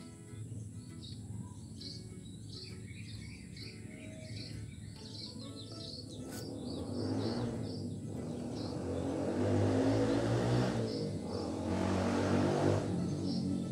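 Small birds chirping repeatedly in short high calls. A broad rushing noise with a low rumble swells from about halfway through and is loudest near the end.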